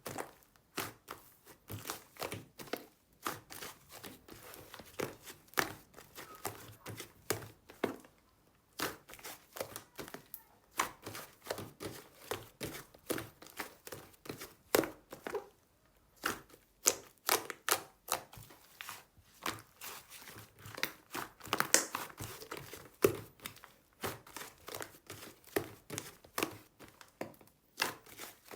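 Slime with clay worked into it being pressed and stretched by hand, giving an irregular run of sticky clicks and small pops, several a second, with two short pauses.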